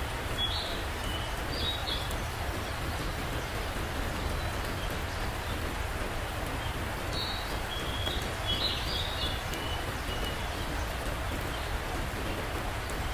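Short, high-pitched chirping calls from an unidentified animal, coming in a few clusters (near the start and again past the middle) over a steady hiss.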